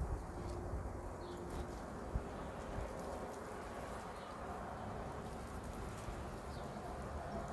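Outdoor ambience: a steady low rumble, like wind on the microphone, with a few faint, brief bird chirps and scattered light clicks.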